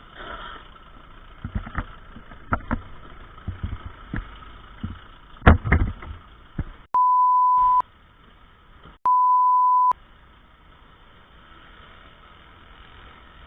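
Two censor bleeps, identical steady beep tones of under a second each, a little over a second apart, with all other sound cut out during each one. Before them, over a steady background of engine and traffic, come several sharp knocks or bangs.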